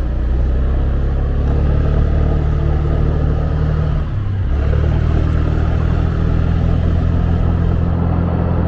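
A 125 cc motorbike engine running steadily under way, heard from the rider's seat along with road and wind noise. The engine note dips briefly and changes pitch about four seconds in, then picks up again.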